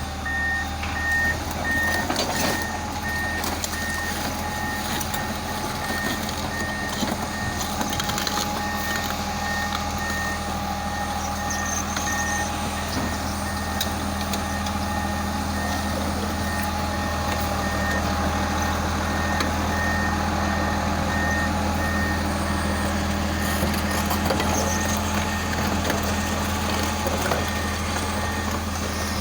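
Komatsu D65EX bulldozer's diesel engine running steadily while its reversing alarm beeps about twice a second, in long runs broken by a few pauses as the machine backs up.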